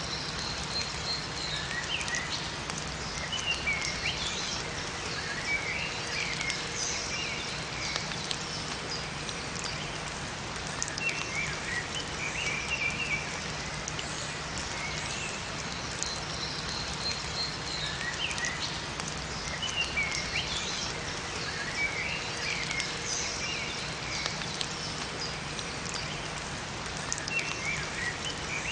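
Steady rain falling in a forest, with small songbirds chirping in short phrases over it every few seconds.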